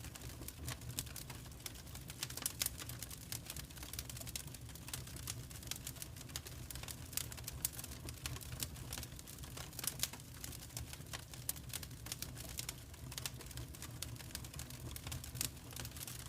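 Wood fire crackling in a fireplace: irregular sharp pops and snaps, a few louder ones scattered through, over a steady low rumble of the flames.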